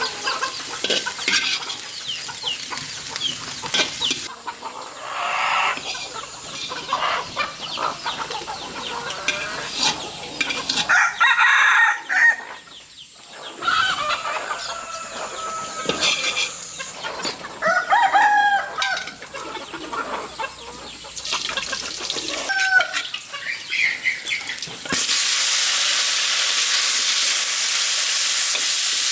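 Domestic chickens clucking, with a rooster crowing, in short pitched calls that come and go across several cuts. Near the end the calls give way to a steady sizzle of food frying.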